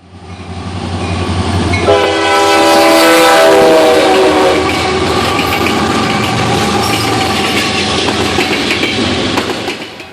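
Freight train locomotives passing on jointed rail, their diesel engines running. An air horn sounds about two seconds in for a little over two seconds, then the wheels click-clack steadily over the rail joints.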